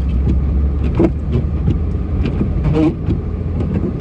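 Snowplow vehicle's engine running steadily, with scattered knocks and clunks, the clearest about a second in and just before three seconds, as it pushes snow.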